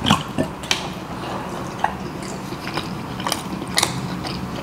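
A person chewing slow-cooked oxtail, with short wet clicks and smacks scattered through.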